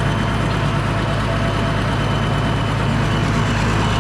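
Farm tractor engine, the 185, running at a steady speed while it drives along, heard loud and close from on board.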